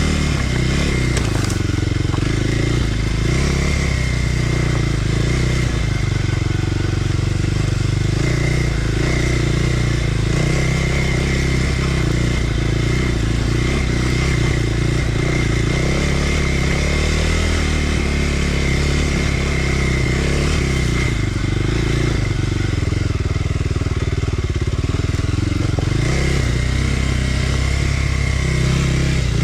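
Kawasaki KLX300R dirt bike's single-cylinder four-stroke engine running at fairly steady revs, rising and dipping a little as it is ridden.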